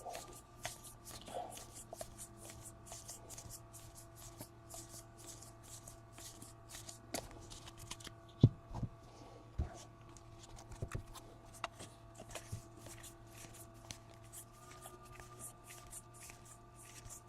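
Baseball trading cards being flicked through by hand: a quick, faint run of soft snaps and rustles, about three or four a second, with a couple of louder taps around the middle. A faint steady hum runs underneath.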